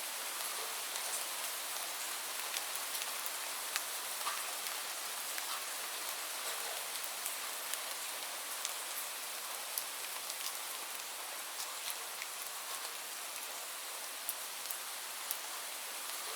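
Steady rainfall, an even hiss with many separate drops ticking on a surface.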